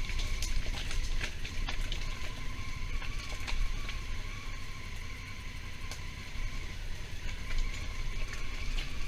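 Honda Africa Twin motorcycle on the move: wind buffeting the microphone over the engine, with a steady high whine and scattered short ticks.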